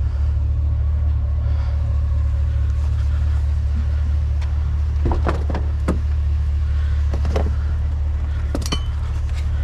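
Steady low rumble of an idling vehicle engine, with a few short knocks and clanks about halfway through and near the end.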